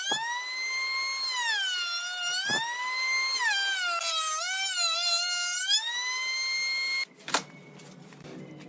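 High-pitched whine of a power tool's motor, its pitch sagging and recovering as it is loaded, then cutting off abruptly about seven seconds in, followed by a quieter stretch with a sharp click.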